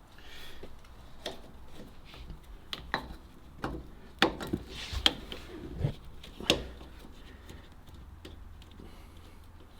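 A series of irregular sharp clicks and light knocks, about a dozen over several seconds, like tools or parts being handled, over a faint low hum.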